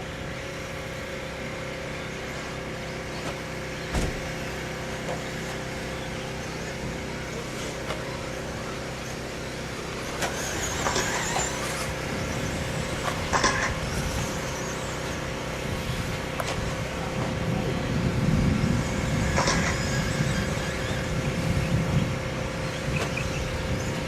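Electric motors of 1/10-scale 2WD modified RC race trucks whining as the trucks pass several times, over a steady background hum. A single sharp knock comes about four seconds in.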